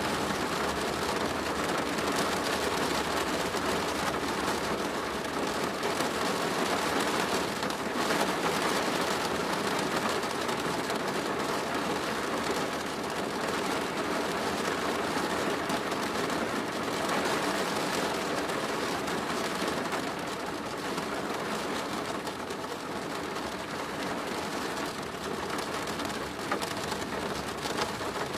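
Steady rain drumming on a plastic roof, a dense even patter with slight swells in intensity.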